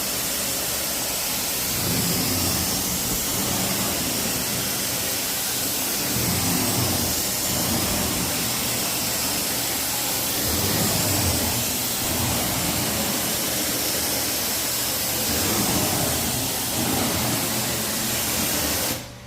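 Carpet-cleaning extraction machine running, its vacuum and spray hissing, with a lower note that swells and eases every few seconds; it cuts off suddenly near the end.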